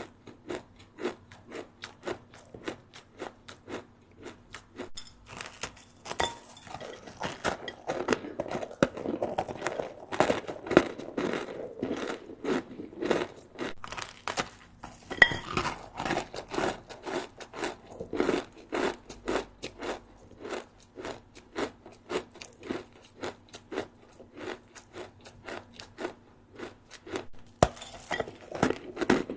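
Close-up chewing of a crispy puffed-rice snack, a steady run of crunches about two to three a second, denser and crackly for a stretch in the middle.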